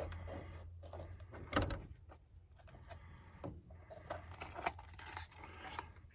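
Santoku knife cutting vegetables on a cutting board: scattered light taps and knocks, the loudest about one and a half seconds in.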